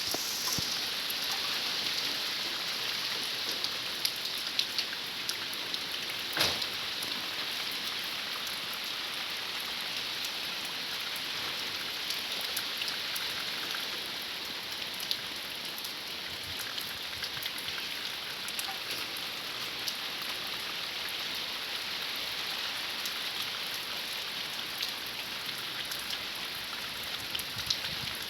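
Heavy rain falling steadily and pattering on surfaces, with many sharp drop taps scattered through it and one louder knock about six seconds in.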